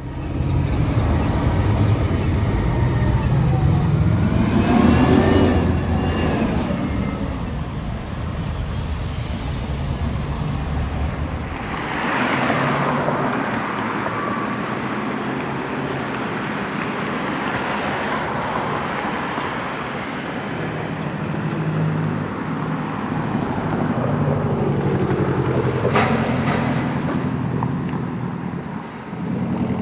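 McNeilus front-loader garbage truck running, its engine rising and falling in pitch over the first several seconds, then a burst of hiss about twelve seconds in, a steadier lower running sound afterwards, and a sharp knock near the end.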